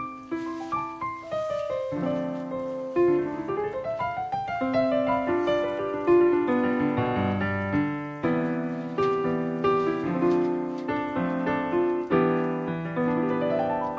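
Background piano music: a melodic tune of many short, ringing notes with a quick rising run near the start.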